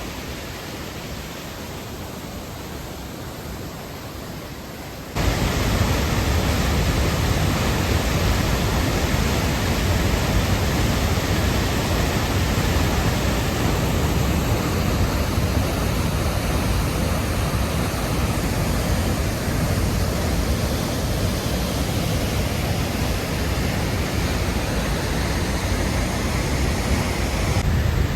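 Rushing water of a waterfall: a steady, even rush of falling water, softer for the first five seconds and then abruptly much louder.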